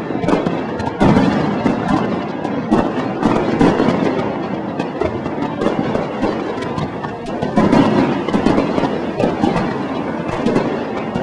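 Fireworks bursting in quick succession: a dense run of crackles and bangs, with heavier booms about a second in and again past the middle.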